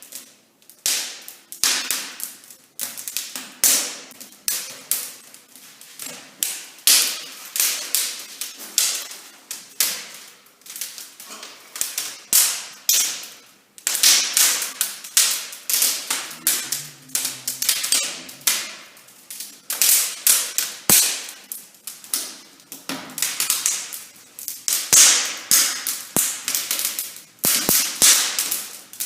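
Wood fire crackling and snapping irregularly in the firebox of a wood-burning brick fireplace, with many sharp pops a second as the freshly lit fire takes hold.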